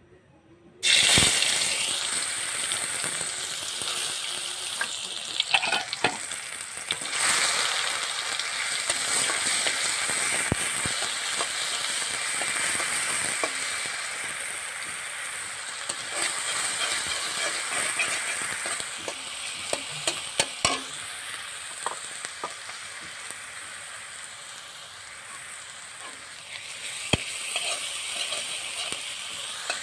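Chopped aromatics hitting hot oil in a metal wok: a sudden loud sizzle about a second in, then steady frying that slowly eases and swells again near the end. A metal spatula stirs them, with scattered scrapes and clinks against the pan.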